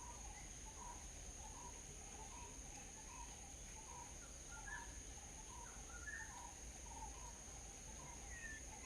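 Birds chirping faintly, a short note repeated about twice a second with a few higher chirps between. A steady high insect drone runs beneath.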